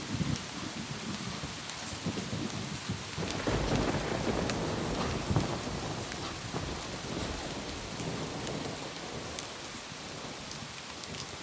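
Steady rain on a roof, with scattered drops ticking through the hiss. A low thunder rumble trails off at the start, swells again a few seconds in, then fades away.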